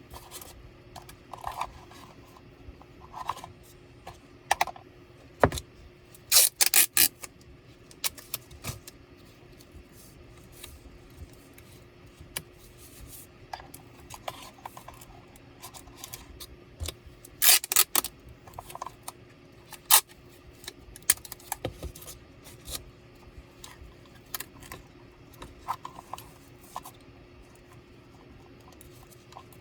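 Small tools and laptop parts being handled: irregular clicks, taps and light metallic jingling, with two louder rattling bursts, one about a quarter of the way in and one just past halfway, over a faint steady hum.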